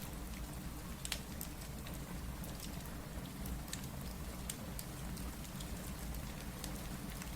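Steady rain hissing with a low rumble, mixed with a fireplace crackling: scattered sharp pops and ticks several times a second.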